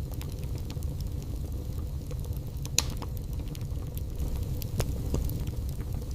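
Wood fire burning in a fireplace: a steady low rumble of flame with scattered crackles and pops, the sharpest pop about three seconds in and another near five seconds.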